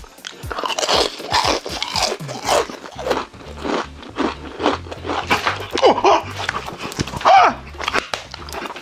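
Close-up crunching and chewing of crispy fried chicken, with many sharp crackles from the fried crust, and faint music underneath.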